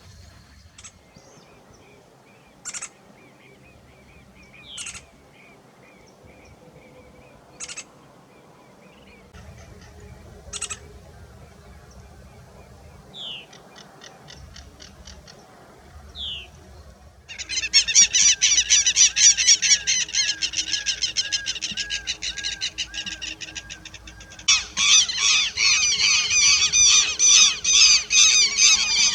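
Wild birds calling: a few short, sharp calls and quick downward whistles, then, about halfway through, a loud, dense, rapidly repeated chattering song starts. It eases briefly and comes back loud near the end.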